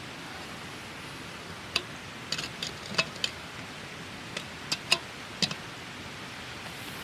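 Wood campfire burning with a steady hiss, and a run of sharp crackles and pops through the middle.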